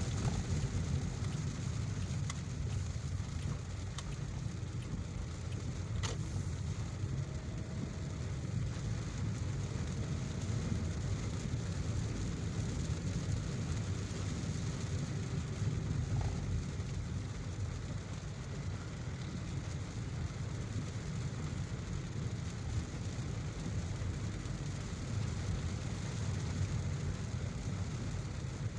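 A car driving in heavy rain: a steady low rumble of engine and tyres on the wet road under an even hiss of rain. There is a single sharp tick about six seconds in.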